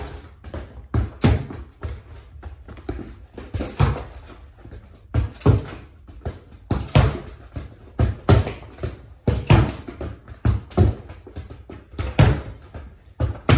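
Soccer ball passed again and again against a wall and received: a steady series of thuds, about one to two a second, some in quick pairs of kick and rebound.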